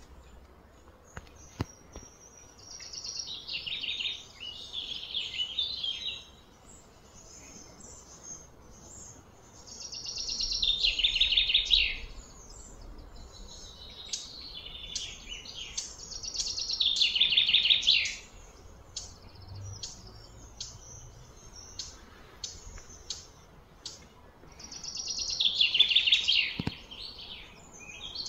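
A bird singing outdoors in repeated high, rapid chirping phrases, four times, each a few seconds long and growing louder before it stops.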